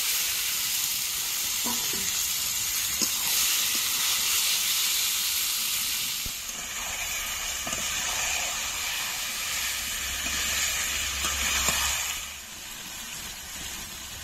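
Marinated chicken pieces sizzling in hot oil and spice paste in a frying pan as they are stirred, with a few light knocks of the spoon. The sizzle is loud for the first six seconds, eases, swells again and dies down about twelve seconds in.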